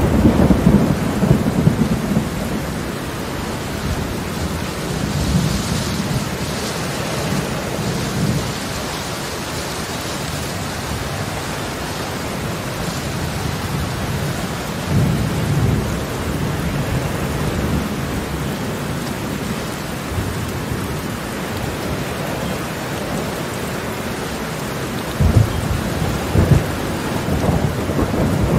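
Heavy rain pouring steadily on a paved courtyard, with low rumbles swelling up several times, strongest at the start and near the end.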